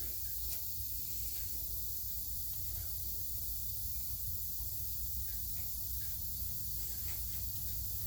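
Steady faint hiss over a low hum, with a few faint small clicks; no distinct work sound stands out.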